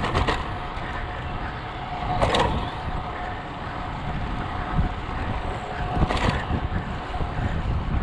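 Wind rumbling on the microphone of a moving bicycle, with a thin steady whine underneath and three short rushing swells: near the start, about two seconds in and about six seconds in.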